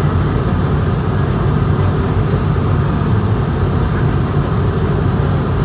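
Steady cabin noise of an Airbus A220-100 airliner in flight: an even low rumble of engines and airflow heard from an economy seat.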